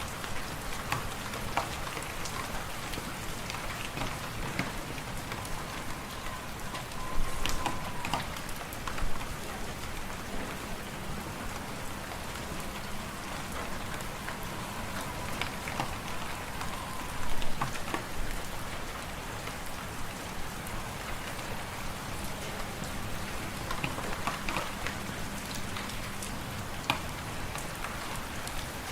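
Wood fire in a fireplace crackling steadily, with a few louder pops.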